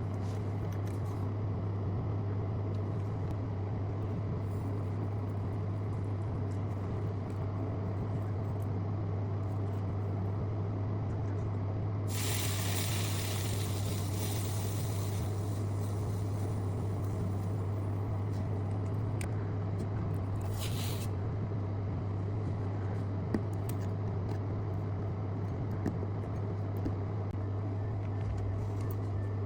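A steady low electrical hum over constant machine-like noise, broken by a hiss lasting about three seconds near the middle and a shorter hiss about eight seconds later.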